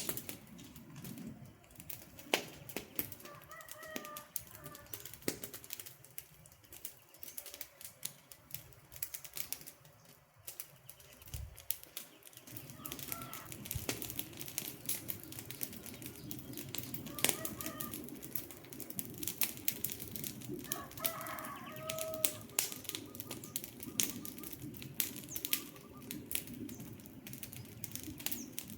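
Wood campfire crackling with irregular sharp pops and snaps over a low rush of flames that grows fuller about halfway through. A few short bird chirps come through now and then.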